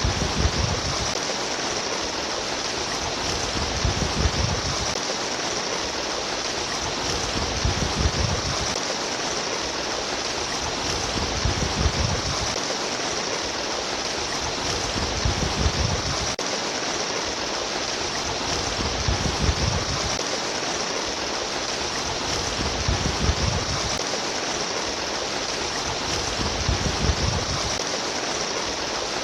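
Steady babbling, rushing water of a stream, with a low surge that swells and fades about every four seconds.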